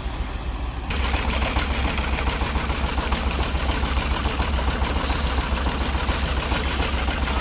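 Engine running with a low, pulsing rumble; it becomes louder and fuller about a second in.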